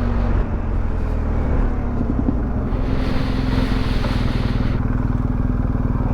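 Motorcycle engine running steadily while riding, heard on board, with a brief dip in the note about half a second in. A rushing noise rises over it from about three to five seconds in.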